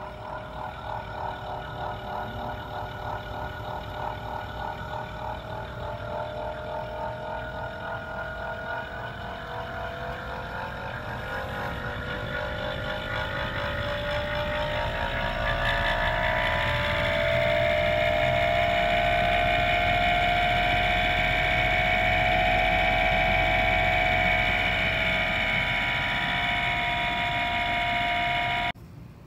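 Daikin air-conditioner outdoor unit's fan motor running with a high squealing whine, fluttering at first, that rises in pitch and grows louder over the first half, then holds steady before cutting off suddenly near the end. The squeal is the sign of wear inside the fan motor.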